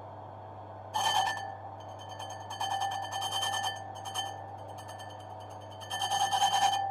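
Mini bench lathe running with a steady motor hum while the cutting tool skims a brake drum. The metal rings with a high, rattling chatter in four separate passes, loudest near the end.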